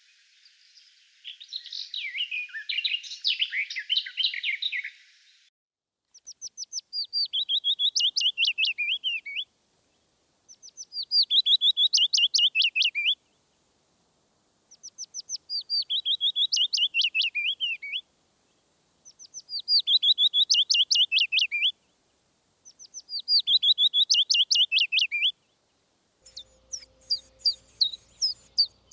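Songbirds singing: a short burst of varied song, then one bird repeating the same phrase five times, each about three seconds long, opening with a few high notes that drop into a trill and end in a flourish. Near the end, a run of quick high chirps.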